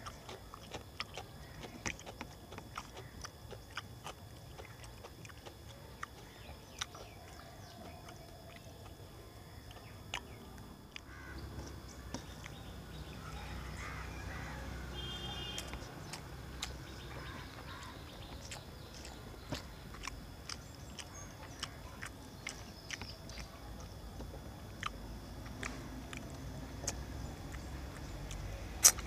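Chewing of rice and fish eaten by hand, with many scattered sharp clicks. A low rumble comes in about 11 seconds in and stays.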